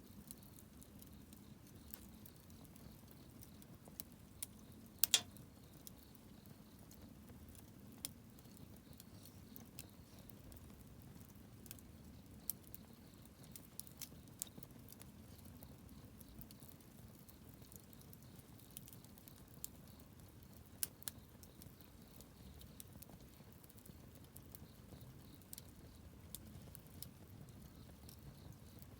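Wood campfire burning: a faint steady rush from the flames with scattered sharp crackles and pops at irregular intervals, the loudest a quick cluster of pops about five seconds in.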